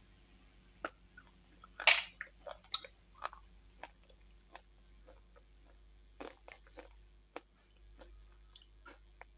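Close-miked biting and chewing of slate pencil, with sharp, brittle crunches. A loud bite about two seconds in starts a run of quick crunches, and a second cluster of crunches comes at around six to seven seconds.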